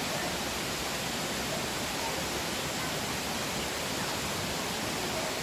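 A small stream running over rocks: a steady, even rush of water.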